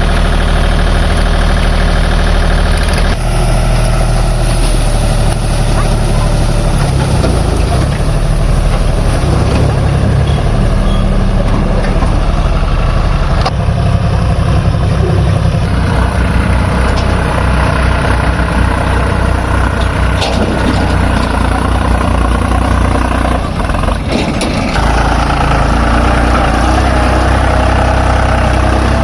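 Heavy diesel engines of a backhoe loader and a tractor running, mostly at a steady idle. The pitch and level change abruptly several times.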